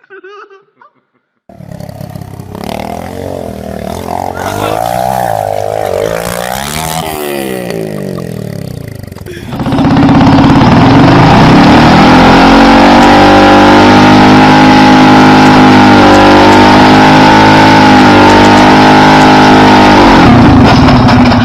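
Motorcycle engine revving up and down a few times, then running loud at steady high revs for about ten seconds before easing off near the end.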